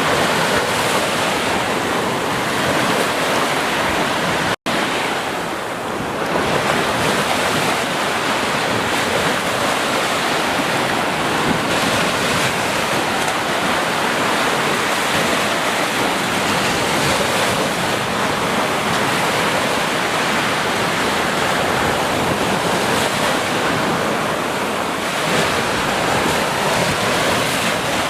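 Ocean surf washing steadily onto a beach, a continuous rush of breaking waves, broken once by a split-second dropout of all sound a few seconds in.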